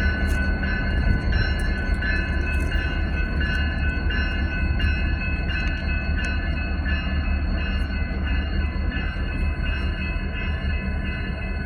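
A train rolling by: a steady low rumble with several steady high ringing tones above it and scattered clicks.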